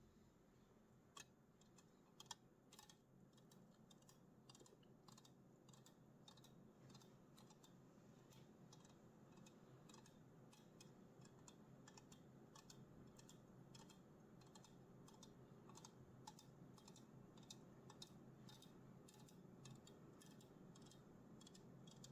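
Faint, light tapping on an aluminium Red Bull can: short, irregular metallic clicks, a few a second.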